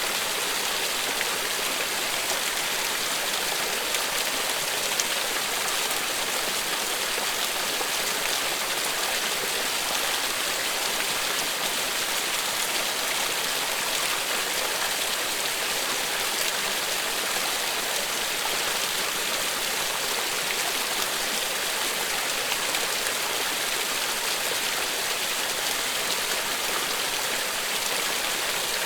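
Steady, continuous rain falling: an even hiss with faint ticks of single drops, unchanging in loudness.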